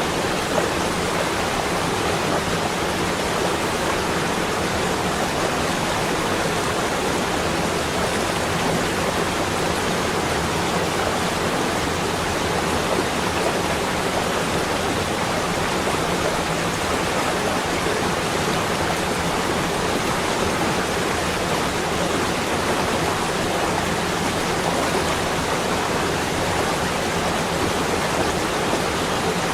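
Steady, even rushing noise presented as the sound of snow in winter, with no changes, tones or sudden sounds throughout.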